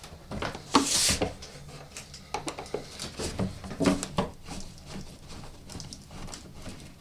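Irregular light knocks, taps and clatter of objects being handled, with a brief rustle about a second in.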